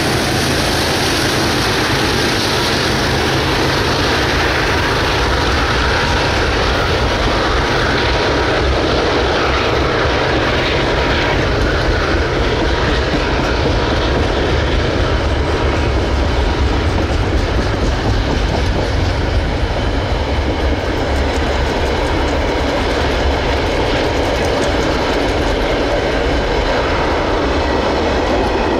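Long, heavy freight train rolling past at close range: a steady, loud, deep rumble with wheel clatter from the wagons over the rails.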